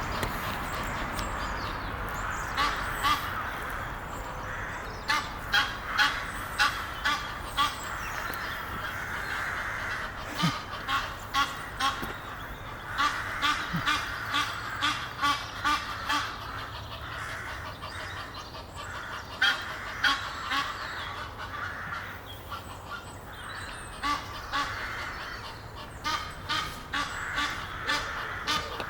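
Egyptian geese honking in quick runs of short, repeated calls, coming in several bouts, over a steady low background noise.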